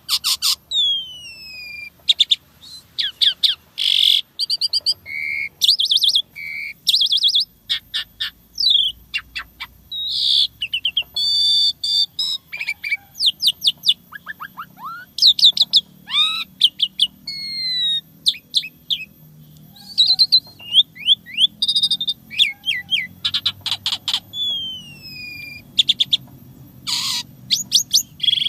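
Asian pied starling (jalak suren) singing a long, varied song with no pauses: rapid chattering notes, falling whistles and quick trills follow one another.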